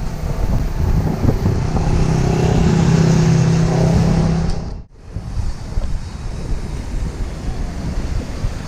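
Wind rushing over the microphone and tyre noise while riding a bicycle, with a steady low hum through the first half. The sound drops out abruptly about five seconds in, then the rushing resumes.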